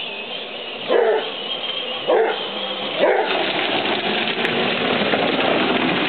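Hound dog barking three times, about a second apart, over the steady noise of a Jeep driving.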